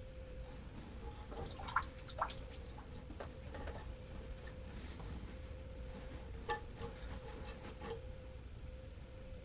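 Faint drips and small splashes of water with a few light taps, as a towel soaks up the last water in the bottom of an emptied toilet tank.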